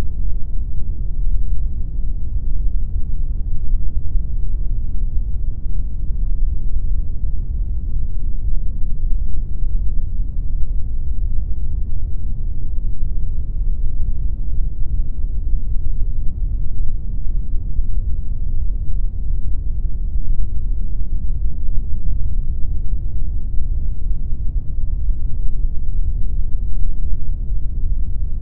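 Steady pink noise: a continuous, unchanging rush of noise weighted toward the low end, with little treble.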